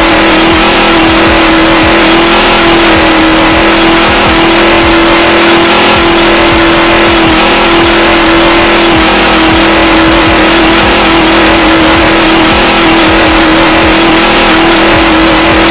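A car engine held at high revs, one steady pitch over heavy noise, very loud and distorted.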